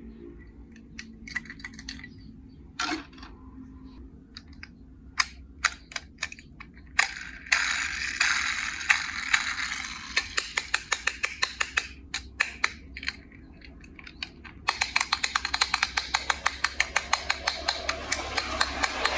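Small plastic toy parts being handled and worked: scattered sharp clicks at first, then, about a third of the way in, a rattling hiss with a rapid string of clicks that becomes denser and steadier after about three quarters of the way.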